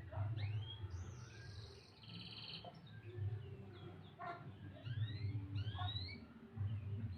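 Domestic canary singing: a run of quick rising chirps with a short buzzy trill about two seconds in, over a low background rumble.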